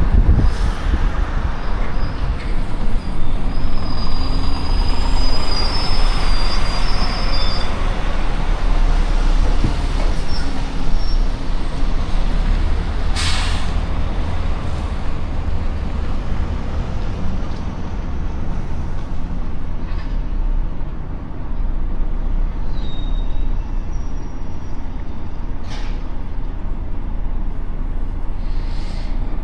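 Truck engine running with a steady low rumble, with a high squeal a few seconds in and a short hiss of air brakes about halfway through.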